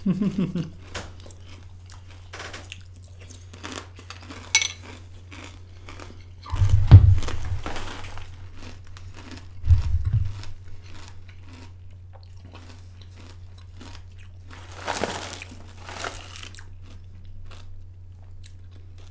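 Someone chewing a mouthful of crunchy Kashi GoLean Crunch cereal: a run of small crunches and clicks. Two loud low thumps come about seven and ten seconds in, and a brief rustle near fifteen seconds, over a steady low hum.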